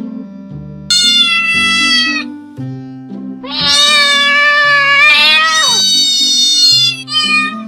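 Domestic cat meowing over background music: one meow about a second in, then a long, wavering drawn-out call that falls away at its end, and a short meow near the end.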